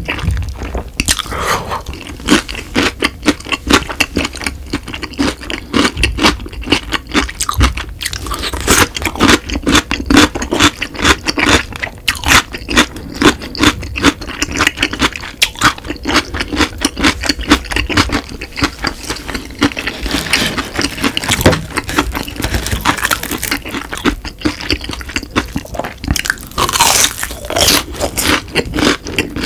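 Close-miked chewing of crunchy pickled radish cubes, a dense run of sharp crunches. Near the end comes a bite into a fried cheese stick.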